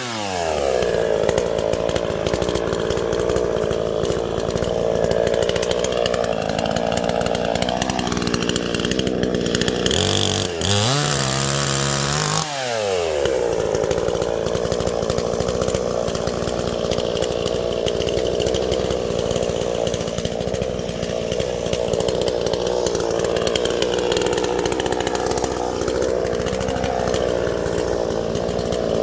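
Two-stroke chainsaw with a new chain and guide bar cutting through dead tree wood. Its revs drop as the chain bites in, and it runs steadily under load. Around ten seconds in the pitch shifts briefly, then about twelve seconds in it drops again into a second long cut.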